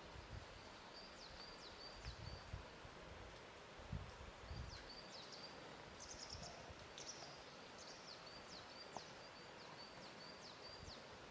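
Quiet lakeshore ambience with a faint steady hiss and a few soft, low thuds of water lapping in the first half. A small bird repeats high, short chirps and quick falling notes throughout.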